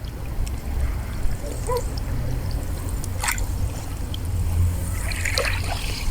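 Wind rumbling on the microphone over small waves splashing at the shore, with a few short sharp sounds.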